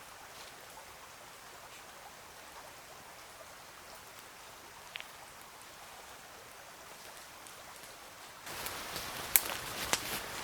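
Steady hiss of water. About eight and a half seconds in it grows louder, with several sharp clicks and crackles.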